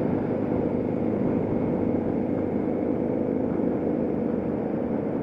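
Motorcycle engine running at steady, even revs with no change in pitch.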